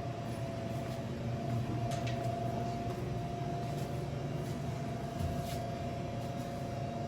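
Steady low mechanical hum with a thin, steady whine above it and a few faint ticks.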